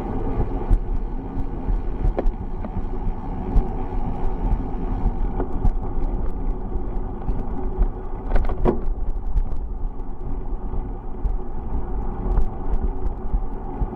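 Wind buffeting the microphone of a camera riding along on a bicycle, over steady rolling road noise, with a brief clatter about eight and a half seconds in.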